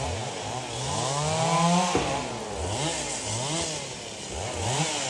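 Several two-stroke chainsaws revving up and down over and over, overlapping, as acacia logs are cut.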